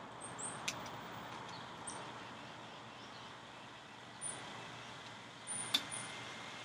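Quiet outdoor ambience with a few short, faint high bird chirps, and two sharp clicks: one about a second in and a louder one near the end.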